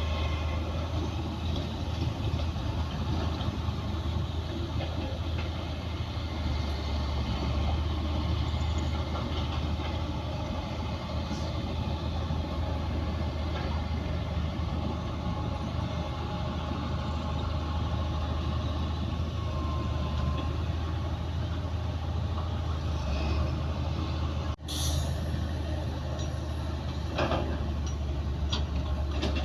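Heavy diesel earthmoving machinery running steadily under load, with a deep low engine hum. The sound breaks off for an instant about three-quarters through, and a few short metallic knocks follow near the end.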